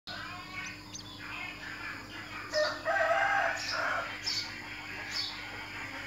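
Birds calling: a louder, longer call lasting over a second around the middle, and short high chirps that fall in pitch, repeating about once a second from about halfway on. A faint steady hum runs underneath.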